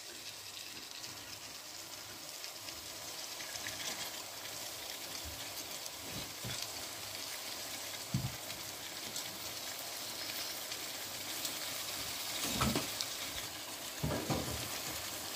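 Vegetables frying in oil and spices in a large aluminium pot, a steady sizzle, with a few soft knocks near the middle and towards the end.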